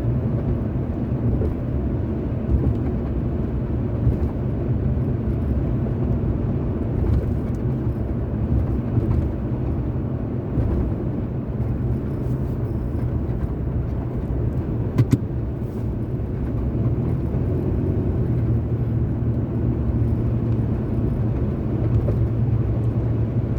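Car driving along at a steady speed: a steady low rumble of road and tyre noise with the engine underneath, and one brief sharp click about fifteen seconds in.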